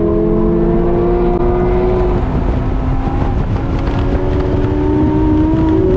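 2006 BMW M5's V10 engine, breathing through a custom Eisenmann exhaust, pulling hard under acceleration with its pitch climbing; about two seconds in it drops with an upshift, then climbs again.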